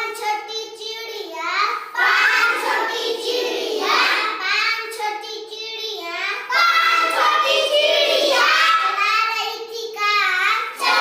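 A child singing a Hindi nursery rhyme in short repeated phrases.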